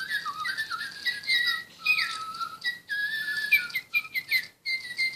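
Little Live Pets electronic toy birds chirping: a busy stream of short, high whistled tweets and pitch glides, several notes overlapping.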